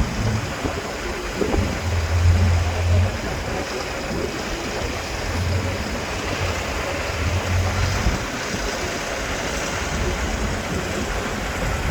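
Heavy off-road trial truck's engine running, with its low hum swelling now and then, under a steady rushing noise.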